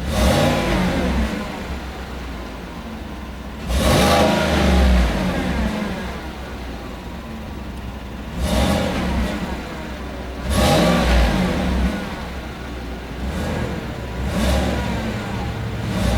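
2018 Chevrolet Silverado pickup's engine revved hard through its exhaust, about five blips of the throttle that rise and fall back to idle in between.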